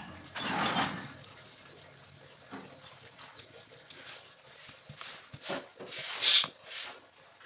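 Bamboo being worked with hand tools: one long scraping stroke near the start, then a scatter of light taps, clicks and short scrapes, with a louder scrape about six seconds in.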